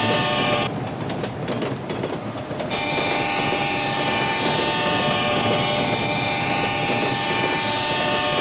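A train passing close by: its horn sounds at the start, then about two seconds of rumbling wheel clatter, then the horn blows again, held for about five seconds.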